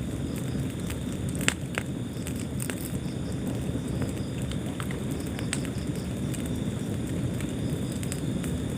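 Wood fire burning in a fireplace: a steady low rumble of flames with scattered crackles and pops, the sharpest two coming close together about a second and a half in.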